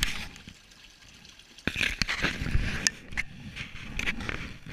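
Water splashing and gushing irregularly, starting suddenly about a second and a half in: a pump discharging water from a partially swamped boat.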